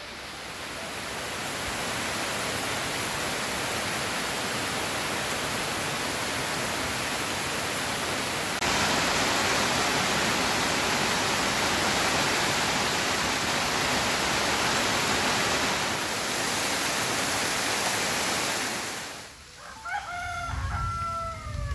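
Heavy rain falling as a steady, even hiss that steps up louder about a third of the way in. Near the end the rain sound drops away and a rooster crows once.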